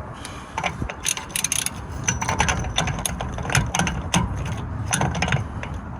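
Ratchet wrench clicking in quick, irregular runs as a 36 mm socket turns the driveshaft's hub nut, drawing the CV joint through the wheel hub.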